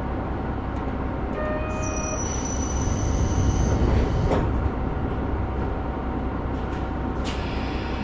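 Doors closing on a KiHa 125 diesel railcar at a station stop, over the railcar's diesel engine running. A short chime sounds about a second and a half in. The doors then slide shut, ending with a knock about four seconds in, and a short burst of air hiss follows near the end.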